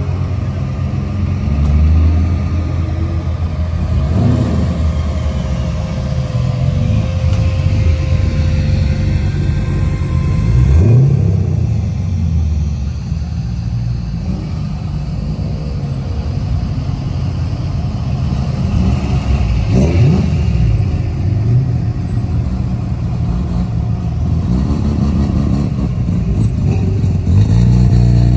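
Car engines running, the low engine note swelling and falling back in brief revs about three times.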